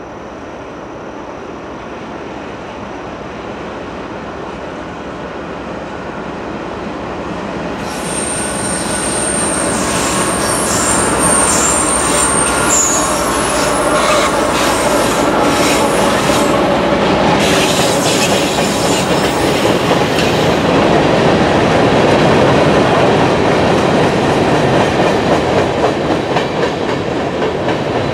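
CSX diesel freight locomotives approach and pass, growing steadily louder. A high metallic squeal from the wheels runs from about eight seconds in to about twenty. Empty covered hopper cars then roll by with a rhythmic clatter of wheels over rail joints.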